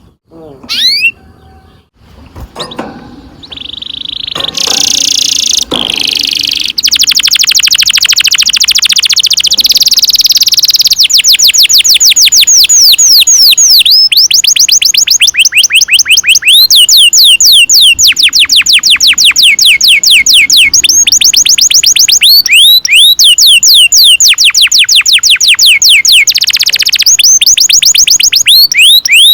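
Domestic canary singing a long rolling song. It starts with a few scattered chirps, then breaks into a very fast trill about seven seconds in, followed by long runs of rapid, repeated falling whistled notes.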